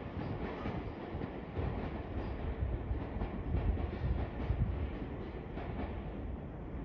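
Tobu Railway train running through the station: a steady rolling rumble with repeated wheel clacks over the rail joints.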